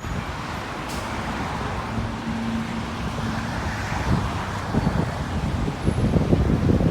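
Expressway traffic noise with wind buffeting the microphone, the gusts growing stronger in the second half.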